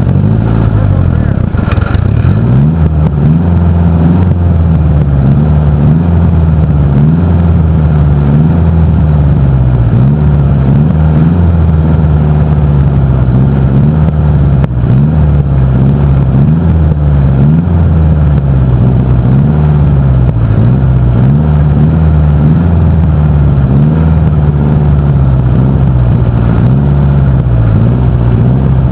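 Pulling tractor's air-cooled engine running loud, its pitch repeatedly swelling and sagging about every two seconds. It picks up about two seconds in after a brief dip.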